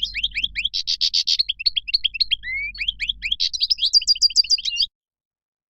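European goldfinch singing: a fast twittering run of quick rising chirps mixed with buzzy notes, cutting off abruptly about five seconds in.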